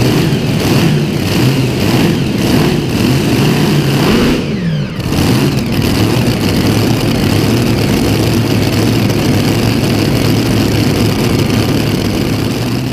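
An engine running on its first start of the season, blipped several times in the first few seconds, revs falling away about five seconds in, then settling to a steady idle.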